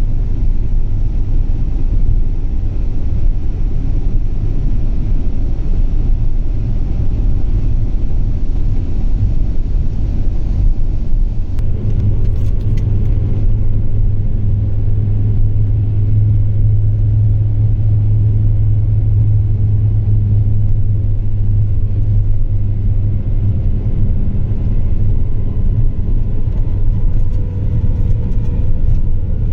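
Car driving along a road, heard from inside: a steady low engine and road rumble that grows stronger about twelve seconds in.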